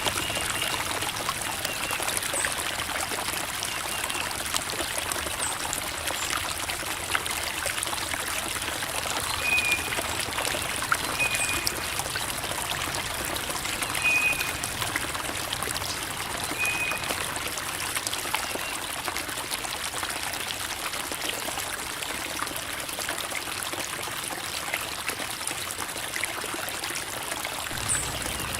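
Creek water babbling and trickling over rocks: a steady rush of flowing water with many small splashes. A few faint, short high notes sound about a third of the way in.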